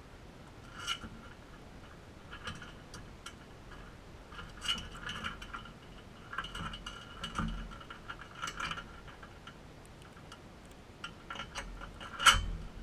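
Crimson rosella making short clicking and tapping sounds in irregular clusters, with a sharper knock near the end.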